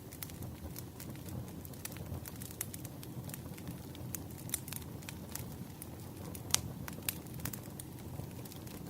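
Wood campfire burning, a low steady rumble of flame under irregular sharp crackles and pops of the burning wood, with two louder pops late on.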